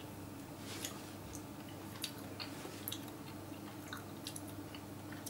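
A man quietly chewing a mouthful of fried pig-head skin in sauce: soft, scattered wet mouth clicks and smacks over a faint steady hum.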